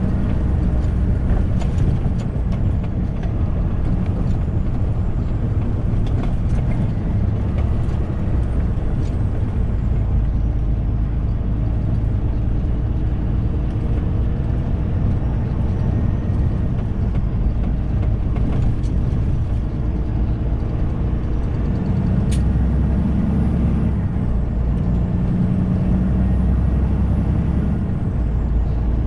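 Semi-truck engine and road noise heard from inside the cab while driving: a steady low drone.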